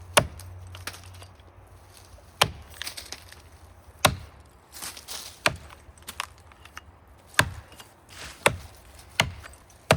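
Axe blows biting into the trunk of a big maple being felled by hand, about eight sharp strikes spaced one to two seconds apart.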